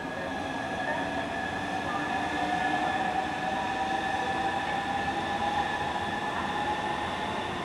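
Southeastern Class 395 high-speed electric train running past and into a tunnel, a steady rumble of wheels on rail with a whine held at two steady pitches.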